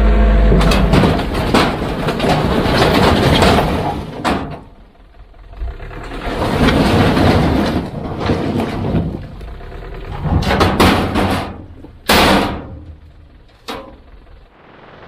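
Heavy earthmoving equipment working: several loud surges of rough noise with knocks and bangs, the sharpest bang about twelve seconds in.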